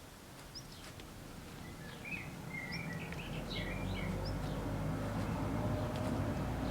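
Birds chirping, with a low engine hum that comes in about halfway and grows steadily louder.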